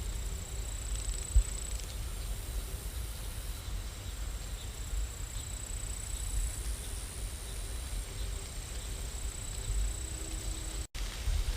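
Steady rain ambience: an even wash of noise with a low rumble, and a thin, high steady whine that comes and goes. The sound cuts out for an instant near the end.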